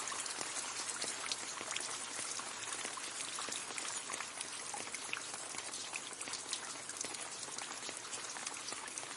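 Gentle rain falling on leaves: a steady soft hiss scattered with many separate drip and patter clicks.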